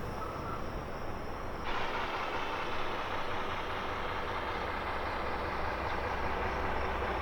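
A heavy engine running steadily with a low rumble; about two seconds in, a broad rush of noise rises over it and holds.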